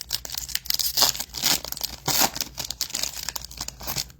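Foil trading-card pack wrapper being torn open and crinkled by hand, an irregular run of crackling and tearing that stops near the end.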